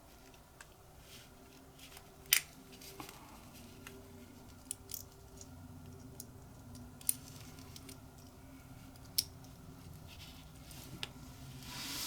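Small metal clicks and taps of butane lighter parts being fitted together by hand: one sharp click about two seconds in, then a few more scattered through.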